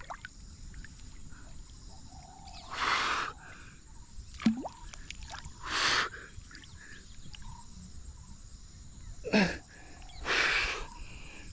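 A man breathing hard, with three loud gasping breaths a few seconds apart and two short grunts in between, from the effort of wading across a river.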